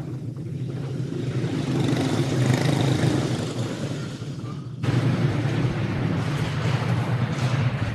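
A pack of racing karts' engines running together as the field circles for a restart, with the sound jumping suddenly louder about five seconds in.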